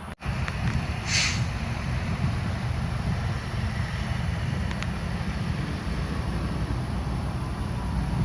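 Steady low rumble of traffic and idling trucks, with one short hiss about a second in.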